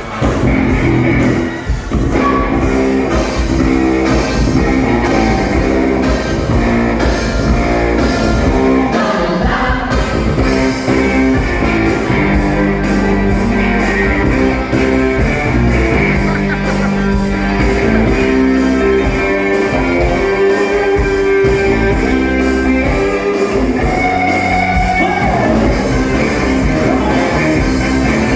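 Live band playing a rock song with a singer, loud and continuous, with a steady beat.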